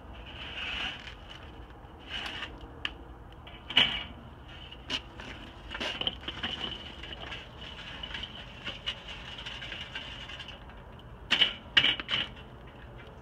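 Metal clanks and clatter at a Weber charcoal grill as lit coals are poured in and the grill is handled, with a few sharp knocks about four seconds in and a quick cluster near the end. A steady high-pitched drone runs underneath.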